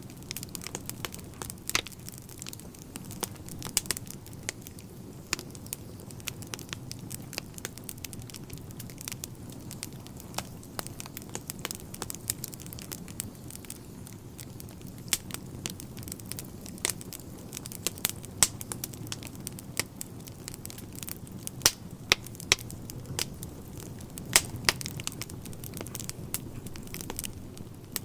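Wood fire burning in a fireplace: irregular sharp crackles and pops over a steady low roar of the flames.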